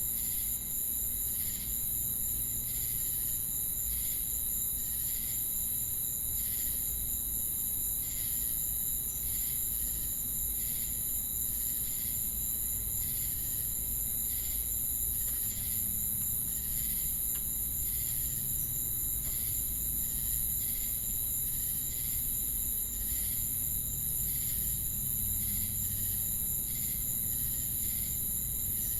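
Crickets and cicadas: a steady, very high-pitched insect drone, with a second insect chirping in a regular pulse about three times every two seconds.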